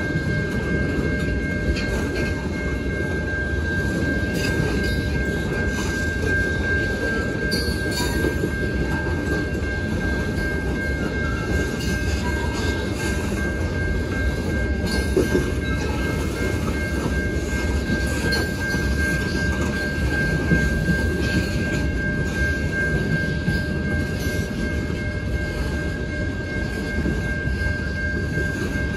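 Freight cars of a long mixed train rolling past: a steady rumble of steel wheels on the rails. A crossing warning bell rings throughout as a steady high tone.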